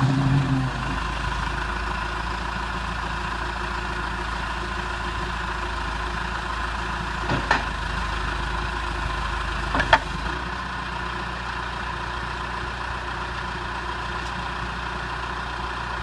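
2003 John Deere 310G backhoe's diesel engine idling steadily after settling down from a higher speed in the first second. Two short sharp knocks sound, about seven and a half and ten seconds in.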